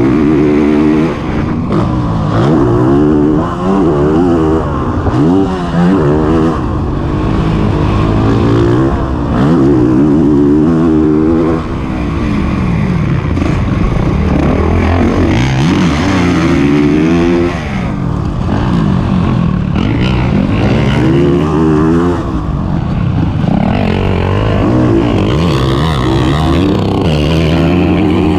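Honda CRF450RX's single-cylinder four-stroke engine revving hard on a motocross track, its pitch climbing and dropping again every second or two with throttle and gear changes.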